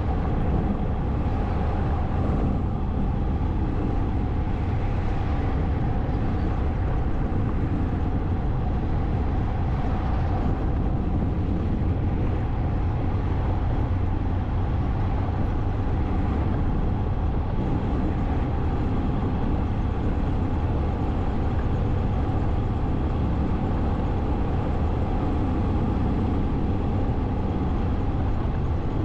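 Motorcycle riding on the road: steady wind rush over the microphone and a low engine drone. A few brief swells of noise rise over it.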